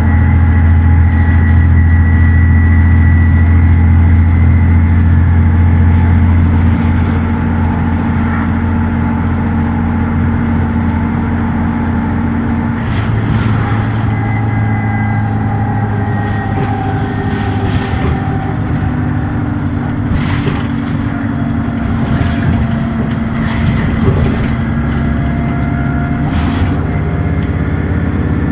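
Dennis Trident ALX400 double-decker bus's diesel engine running hard at speed with a loud, steady drone. It eases a little about six seconds in and shifts pitch about halfway through, and from then on scattered knocks and rattles sound over it.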